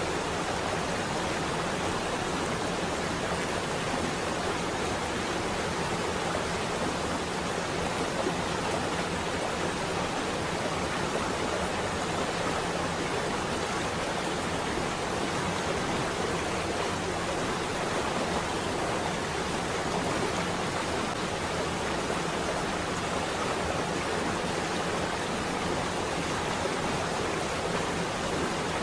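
Steady rain on a window: an even, unbroken rushing hiss, with no thunder.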